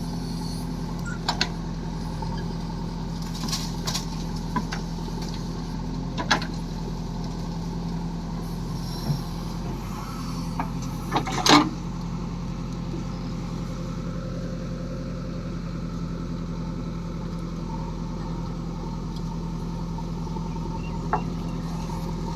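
Diesel engine of a farm vehicle running steadily, with a few sharp knocks and clacks over it, the loudest about eleven seconds in.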